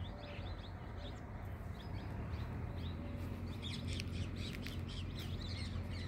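Small birds chirping, many short high calls that grow busier about halfway through, over a steady low hum.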